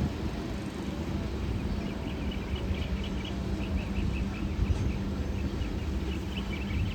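Low rumble of a passing train with a steady hum and wind buffeting the microphone. Birds start chirping about two seconds in.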